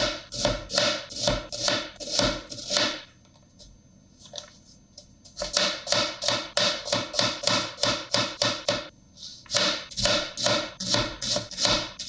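Rhythmic strikes from kitchen prep work, about three a second, each ringing briefly. They come in runs broken by a pause of a couple of seconds about three seconds in and a shorter one near the end.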